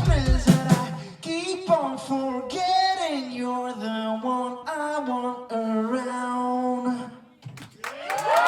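Garage-punk band playing live as a song ends: drum hits in the first second, then a sustained melody stepping from note to note that stops about seven seconds in. The crowd starts cheering and applauding just before the end.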